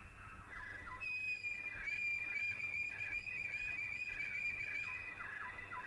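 Birds calling. A high, steady whistled note is held for about four seconds over a run of short, falling call notes, about two a second.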